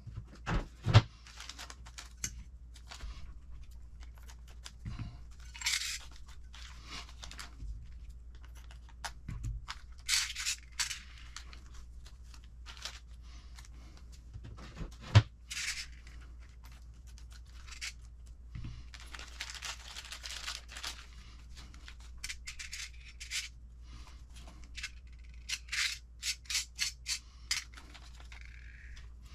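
Small plastic kit parts bags rustling and small parts clicking and tapping as they are handled, with one sharp click about halfway through and a quick run of clicks near the end.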